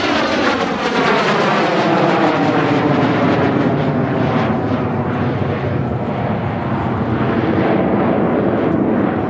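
Kawasaki T-4 jet trainers flying past in an aerobatic display. Their twin turbofan engines make a loud, steady jet noise, with a whooshing sweep that falls in pitch as they pass and move away.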